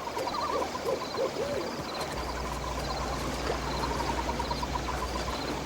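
An owl hooting four times in quick succession, over a rapid, evenly pulsed chirping in the background; a low steady drone comes in about two seconds in.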